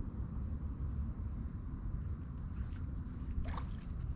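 Insect chorus: a steady, unbroken high-pitched trill, over a low rumble.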